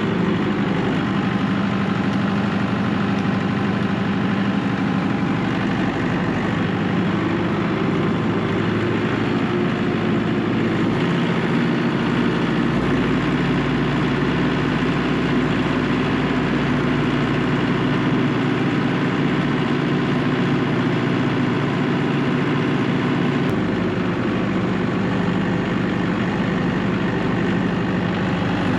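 A large engine idling steadily, its note shifting slightly twice.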